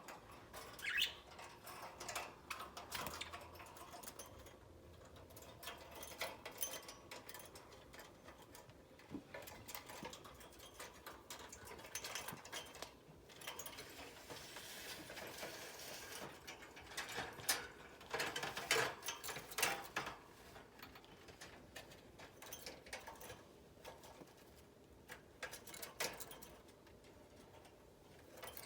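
Pet budgerigars moving about their wire cage: irregular small clicks, taps and scratches, coming in clusters that are busiest about halfway through.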